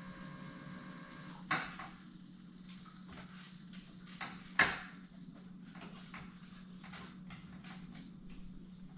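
A series of short clicks and knocks, two louder knocks about a second and a half and four and a half seconds in, over a low steady hum.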